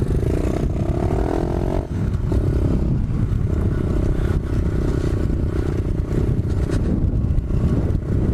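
125cc pit bike's single-cylinder four-stroke engine running under way. The revs rise over the first two seconds, dip briefly, then hold steady, with heavy wind rumble on the microphone.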